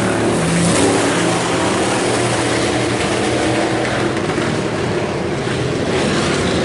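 Several IMCA Hobby Stock race cars running at speed on a dirt oval, engines droning together with rising and falling pitch as they go through the turns.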